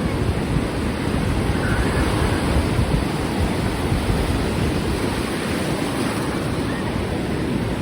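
Ocean surf washing on the beach with wind buffeting the microphone: a steady rushing noise, heaviest in the low range.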